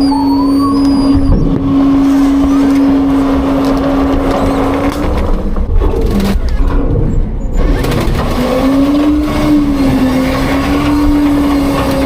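Autocar-Heil front-load garbage truck running, a low rumble under a steady whine. The whine drops out about five seconds in and comes back a couple of seconds later, wavering up and down in pitch.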